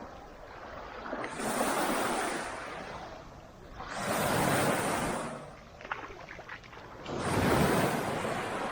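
Small waves breaking and washing up the beach, three surges of rushing water each rising and falling away, about three seconds apart.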